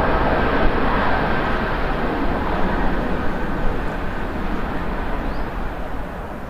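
Jet airliner's engine noise, a steady rush with a faint high whine in the first few seconds, slowly fading as the aircraft moves away.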